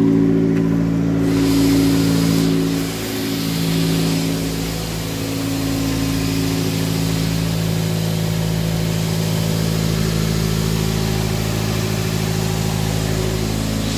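Fiat 500 Abarth's 1.4-litre turbocharged four-cylinder engine idling steadily.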